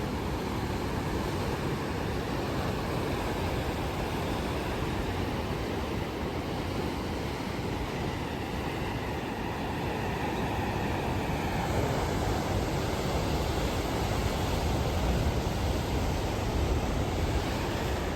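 Steady rushing noise of sea and wind at the shore, heavy and rumbling in the low end, getting a little louder about twelve seconds in.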